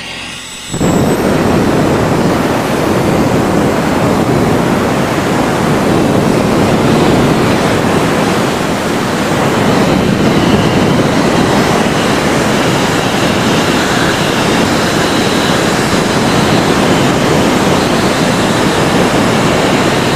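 Compressed air from a diesel compressor's air hose blasting dirt out of a clogged machine cooler: a loud, steady rushing hiss that starts suddenly about a second in.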